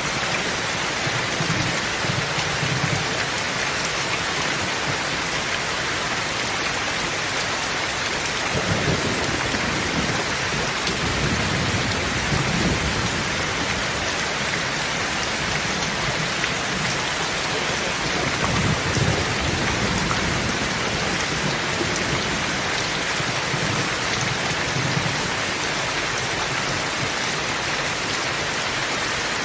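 Thunderstorm: steady rain with low thunder rumbling several times, the longest rumble about a third of the way in.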